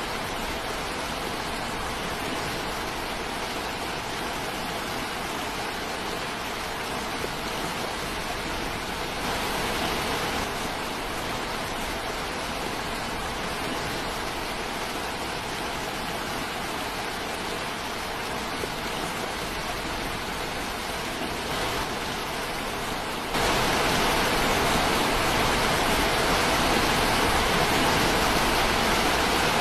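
Steady rushing water, an even roar without a beat, that gets suddenly louder about 23 seconds in.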